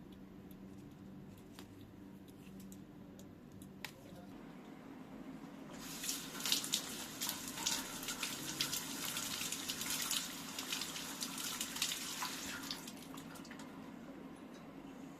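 A tap runs water into a sink, splashing, for about seven seconds from roughly six seconds in, then stops. A steady low hum and a few light clicks sound before it.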